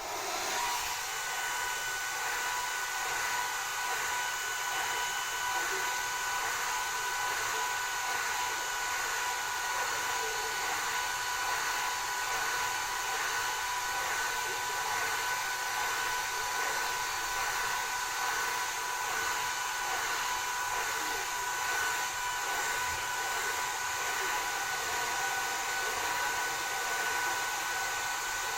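Hand-held hair dryer switched on at the start, then running steadily: a constant blowing rush with a steady whine.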